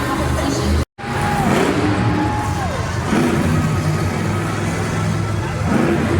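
Monster truck engines running loud in a stadium, with pitches sliding up and down as they rev. The sound cuts out for an instant about a second in.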